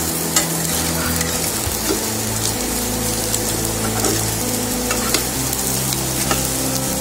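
Handvo cakes sizzling steadily in hot oil and sesame-seed tempering in a nonstick frying pan as they are turned over, with a metal spatula clicking against the pan several times.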